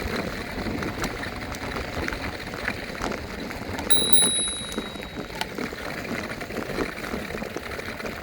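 A handlebar bell on an electric scooter rings once about four seconds in: a single bright ding that fades within a second. Under it runs the steady rumble and rattle of the scooter riding over pavement.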